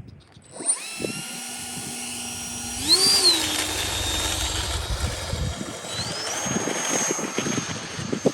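Electric ducted-fan motor of an Arrows F-86 RC jet spooling up to a steady whine, stepping up in pitch twice as the throttle is advanced. Wind rumbles on the microphone underneath.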